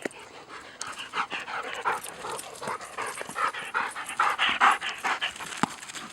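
Dog panting after chasing a ball, about three quick breaths a second. A single sharp tap near the end.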